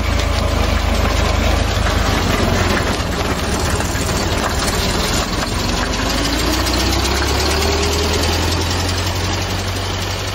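Ford Model T's 2.9-litre four-cylinder side-valve engine running as the car drives slowly, heard from the driver's seat. About halfway through, a whine rises in pitch for a few seconds.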